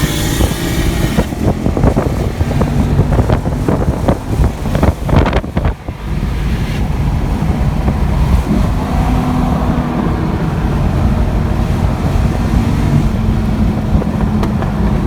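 Car engine running at a steady pitch, with wind buffeting the microphone and a run of knocks and clatter over the first several seconds.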